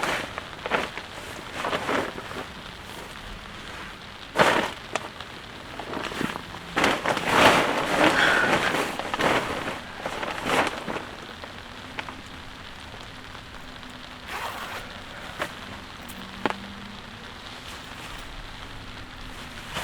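Light rain falling steadily, with irregular louder rustling bursts every few seconds.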